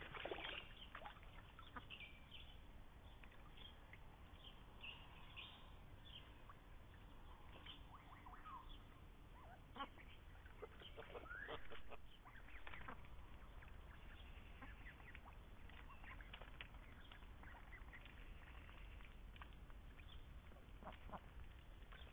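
Indian runner ducks quacking faintly now and then.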